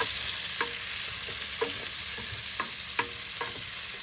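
Chopped red and green peppers stir-frying in hot oil: a steady sizzle, with the utensil scraping across the pan every half second or so as the vegetables are stirred.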